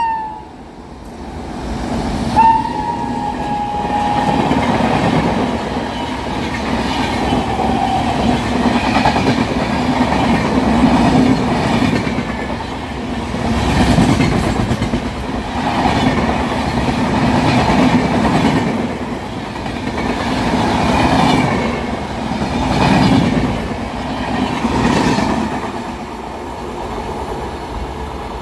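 Indian Railways WAP-7 electric locomotive sounding its horn as it passes, the horn's pitch dropping a little, then its coaches running past with a rhythmic clatter of wheels on rail joints that swells and fades about every two seconds.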